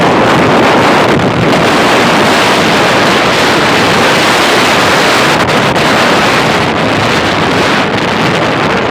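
Floodwater rushing loudly down a stream in spate, a steady unbroken rush mixed with wind buffeting the microphone.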